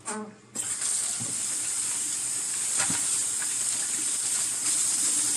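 Water running steadily from a tap, a hiss that starts suddenly about half a second in and is shut off abruptly about five seconds later.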